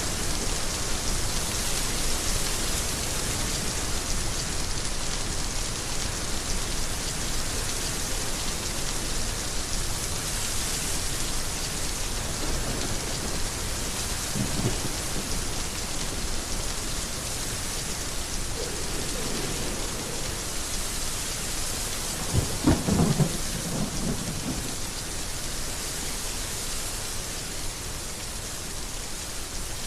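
Heavy rain falling steadily, with thunder rumbling in the middle and a louder peal of thunder about three quarters of the way through.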